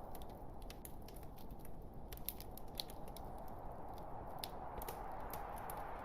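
Log fire crackling: irregular small snaps and pops from burning wood over a steady low hiss of the flames.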